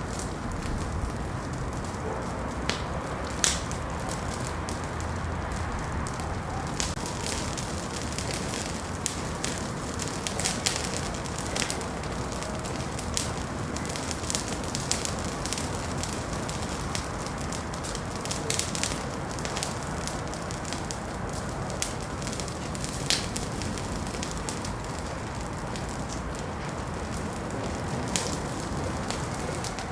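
Wood fire crackling in a fireplace: a steady low hiss of burning with frequent irregular pops and snaps, a few of them sharper.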